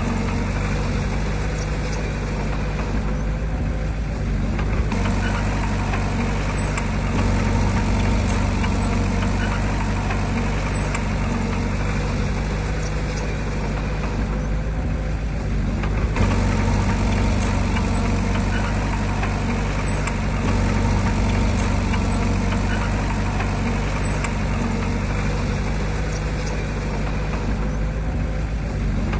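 Heavy earthmoving machinery's diesel engine running steadily, its low note shifting about halfway through.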